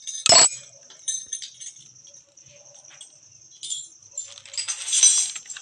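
Metal clinking and rattling from a motorcycle chain and tools being handled, with one sharp knock just after the start and a burst of jangling near the end.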